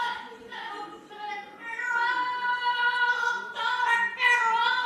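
High-pitched singing in long held notes, each note lasting about a second, changing pitch between them.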